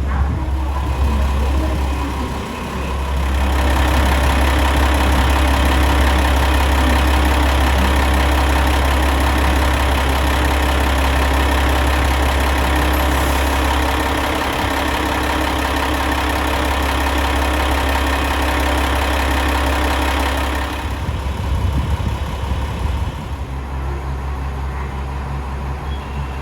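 Komatsu diesel engine of a KiHa 40-series railcar idling with a steady low drone. A louder layer of engine sound builds about three seconds in and drops away a few seconds before the end.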